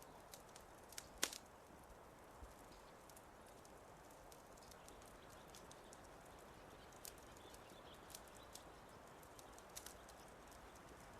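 Wood fire in a fireplace crackling faintly: scattered small pops and ticks over a soft steady hiss, with one sharper snap about a second in.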